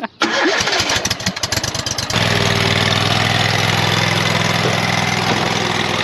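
Lawn mower engine cranked by its electric starter for about two seconds, then catching and running steadily.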